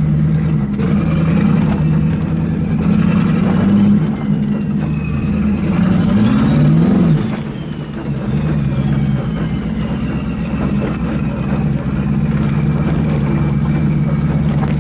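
Turbocharged 454 big-block V8 running under load. Its revs climb about six seconds in and drop back about a second later, with a faint high whistle rising and falling alongside. The driver says the engine is hurting.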